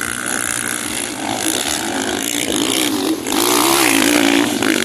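Motocross motorcycle engines revving up and down as the bikes race around the track, the engine noise growing louder about three seconds in as a bike comes closer.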